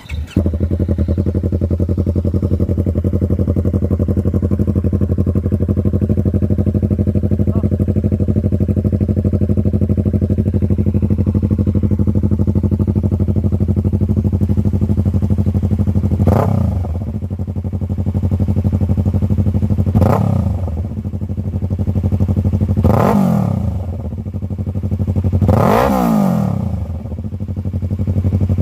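Motorcycle engine idling steadily, then blipped four times in quick revs, the pitch rising and falling back to idle each time.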